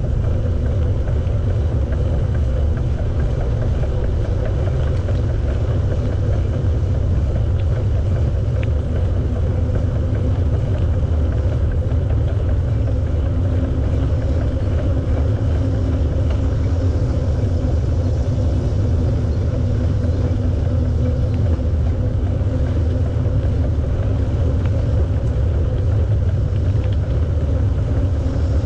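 Steady low rumble of wind buffeting the microphone of a camera carried on a moving bicycle, with no pauses or distinct events.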